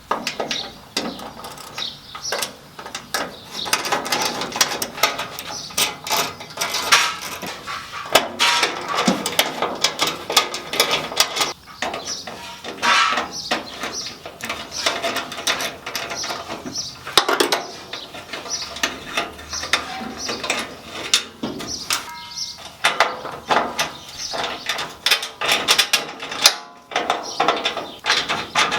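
Ratchet wrench clicking in quick runs, with metal clinks of tools and parts, as a fastener on a truck's transmission dipstick tube is worked.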